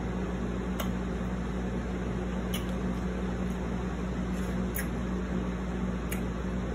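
Chewing a crisp pickle spear, heard as four faint sharp clicks a second or two apart, over a steady low hum and hiss.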